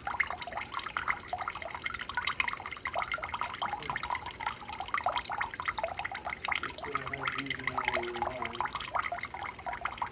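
Sboly single-serve coffee maker running a water-only cycle, trickling into a cup with an irregular patter of drips and splashes.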